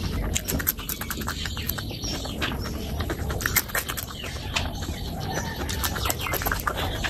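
Chewing and wet mouth sounds of chicken skin curry eaten by hand: rapid irregular smacking and crunching clicks.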